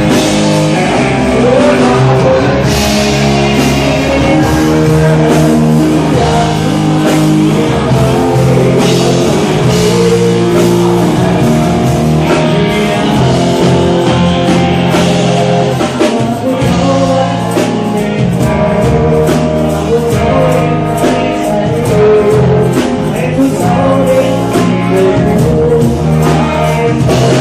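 A band playing a rock-style song with a singer, loud and steady throughout.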